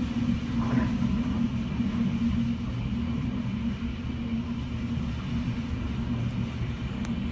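Hurricane-force wind buffeting the building, heard from indoors as a steady low rumble.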